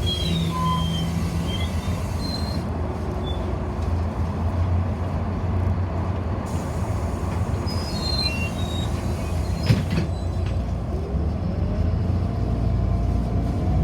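Inside a moving city bus: steady engine and road rumble, with a few brief high squeaks and a sharp knock about ten seconds in. Near the end a whine rises in pitch as the bus speeds up.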